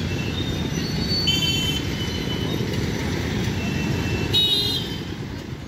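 Local suburban electric train running on the rails as it pulls out, a dense steady rumble with brief high-pitched tones about a second in and again near the end.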